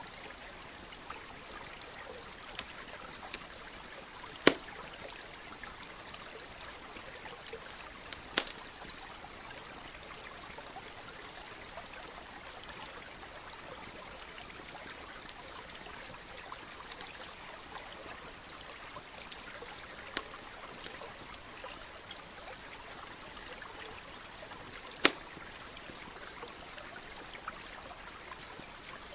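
Steady flow of a small stream, with a campfire crackling over it: scattered sharp pops, three of them much louder, about four, eight and twenty-five seconds in.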